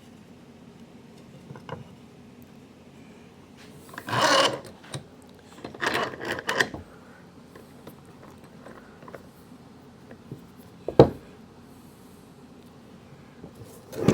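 Rubbing and scraping on wood: one short stroke about four seconds in, a quick run of shorter strokes around six seconds, then a single sharp knock about eleven seconds in.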